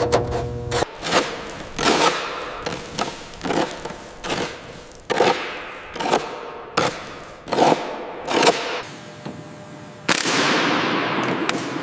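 A series of sharp bangs, roughly one a second at irregular spacing, each with a fading ringing tail. One a little before the end is the loudest and rings out longest.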